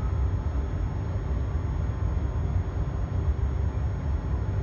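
Passenger train running along the line, heard from inside the carriage: a steady low rumble.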